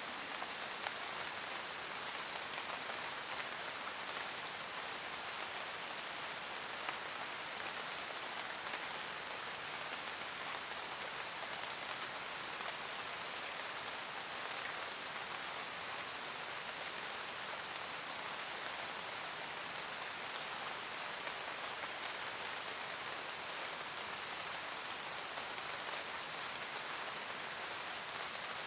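Steady rain falling in a forest, a continuous even hiss with scattered individual drops pattering on leaves.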